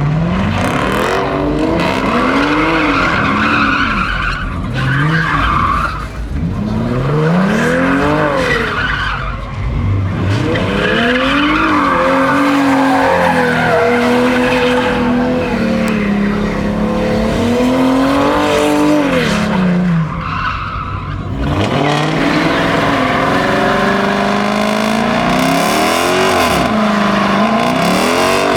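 A car engine revving hard with tyres squealing on pavement, as in donuts or a burnout. The revs rise and fall about once a second at first, then are held high for long stretches with a brief dip about two-thirds of the way through.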